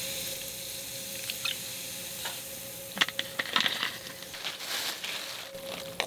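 Food sizzling in a pan, the sizzle easing off, with a cluster of sharp clicks and taps of utensils about three seconds in.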